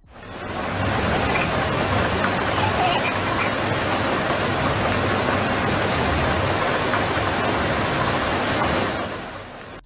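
Steady, loud rushing noise with no distinct events, fading in over the first second and fading out near the end.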